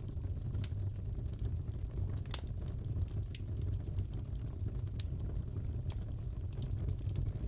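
Fire crackling in a fireplace: a steady low rumble with irregular sharp pops and snaps, the loudest a little over two seconds in.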